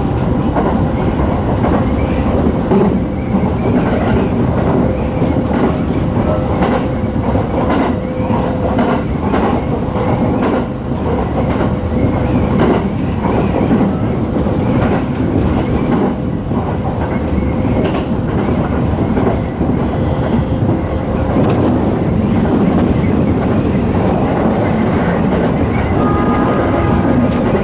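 Sotetsu 10000 series electric train running at speed, with steady running noise, wheels clacking over rail joints now and then, and a faint steady hum.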